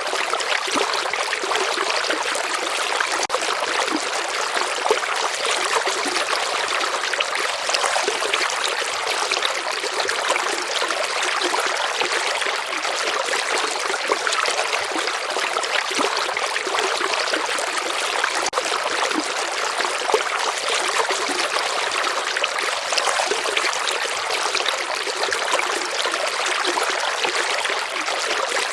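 Shallow river water flowing and trickling steadily, a continuous splashing hiss with little low rumble.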